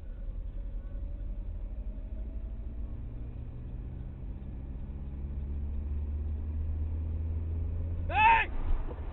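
Steady low drone of a vehicle's engine and road noise heard from inside a moving vehicle, growing slightly louder. Near the end comes a brief loud high-pitched squeal whose pitch bends.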